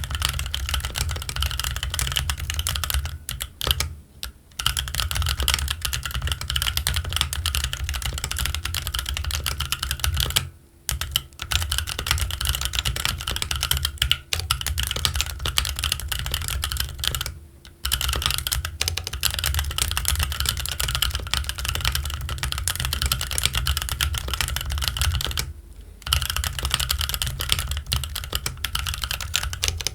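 Keychron Q1 mechanical keyboard with Gazzew Boba U4T tactile switches and ABS Cherry-profile keycaps being typed on continuously at a fast, even pace. There are brief pauses about four, eleven, eighteen and twenty-six seconds in.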